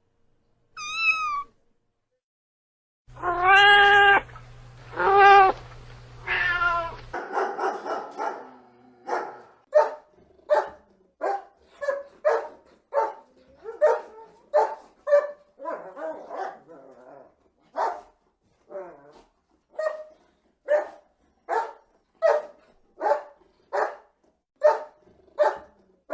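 A cat meowing: one short meow, then three long drawn-out meows. Then a dog barking over and over, about three barks every two seconds.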